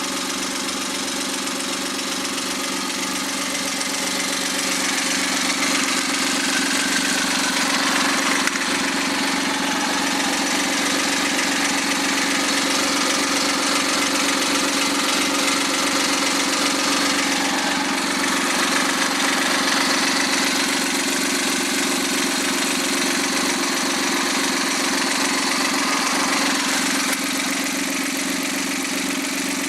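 Freshly overhauled Suzuki K6A 660 cc turbocharged three-cylinder engine running steadily on a test run. It gets slightly louder from about six seconds in and eases back a little near the end.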